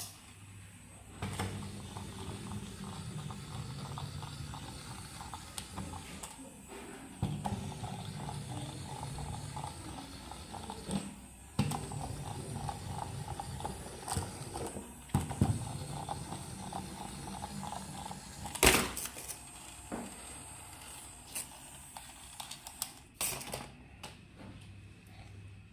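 Small mechanical clicks and rattles over a low steady hum, with a few sharper clicks, the loudest about three quarters of the way through.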